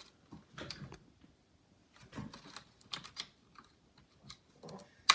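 Scattered light clicks and taps of plastic laptop parts and cables being handled, with a sharp click near the end.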